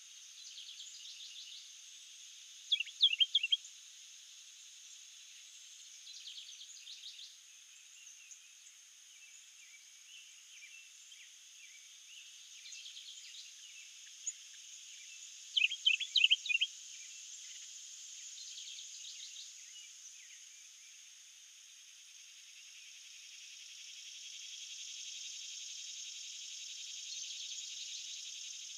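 Summer woodland ambience: a steady high-pitched insect drone, with a bird calling in quick runs of sharp notes every few seconds, loudest twice, early on and about halfway through. The insect drone swells near the end.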